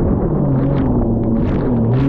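Personal watercraft (jet ski) engine running under way, its pitch dipping and rising as the throttle changes, with a few short bursts of splashing water.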